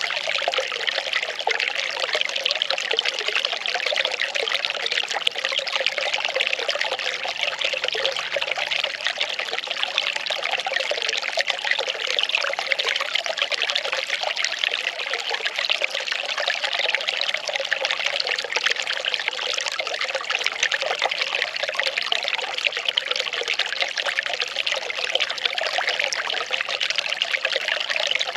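Well water pouring and trickling in a steady, continuous stream.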